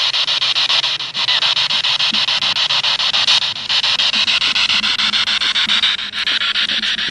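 Spirit box sweeping through radio channels: loud, continuous static chopped into rapid, even pulses, with brief dips a little after one second and again near the end.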